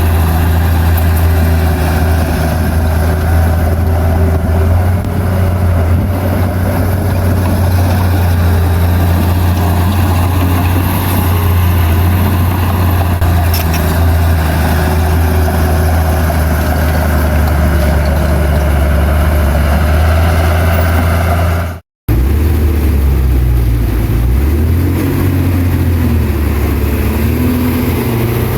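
Heavy construction machine's diesel engine running steadily and loud. The sound cuts out for an instant about 22 seconds in, and the engine note that follows wavers up and down.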